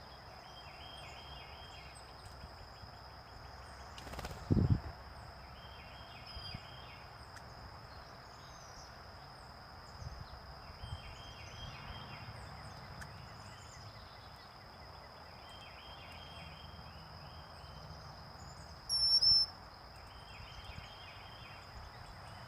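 Backyard birds chirping, with one short song phrase repeated about every four and a half seconds and a single loud, clear call near the end. A steady high tone runs underneath, and there is one dull thump about four seconds in.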